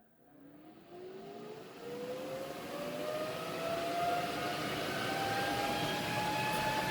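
MIG welding under load on an off-grid inverter: a hiss builds up along with a whine that rises in pitch over several seconds and then levels off.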